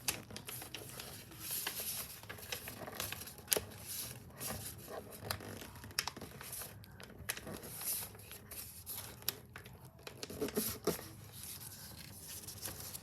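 Sheet of paper being folded and creased by hand: faint, irregular rustling and crinkling with scattered sharp taps.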